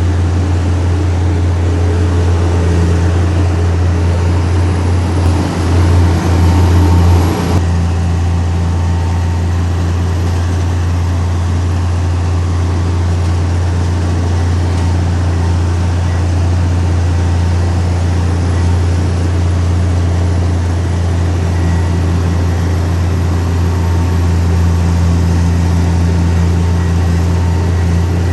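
Heavy diesel engine of earthmoving machinery running steadily with a deep, constant drone. A brief louder, rougher patch comes about six to seven seconds in.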